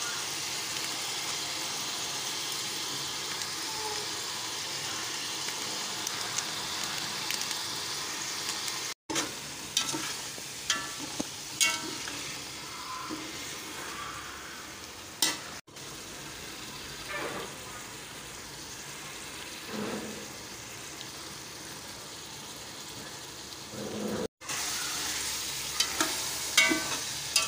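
Chicken, tomatoes, green chillies and potatoes sizzling in oil in a cooking pot. The sizzle is steady for the first several seconds, then quieter after abrupt cuts. A metal spoon clinks and scrapes against the pot as the mixture is stirred.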